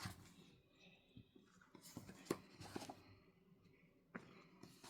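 Near silence: room tone with a few faint, short clicks and rustles.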